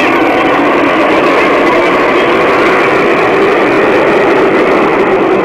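Fighter jet engine noise, a loud steady rush with no let-up.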